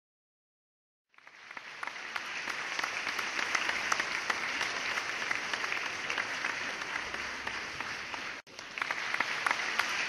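A crowd applauding, a dense steady clatter of many hands clapping that swells in after about a second of silence and breaks off for an instant near the end.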